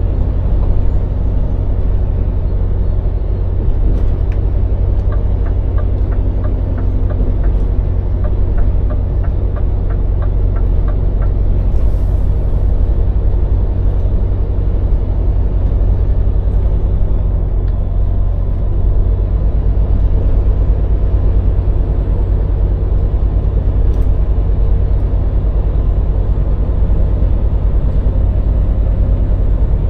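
Scania lorry's diesel engine running with a steady low rumble. For about six seconds a regular ticking goes at about two ticks a second, as of the turn indicator, and a short hiss follows about twelve seconds in.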